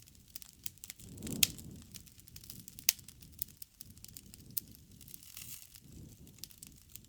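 Wood fire crackling: sharp pops scattered throughout over a low rustle of burning, the loudest pops about a second and a half and three seconds in.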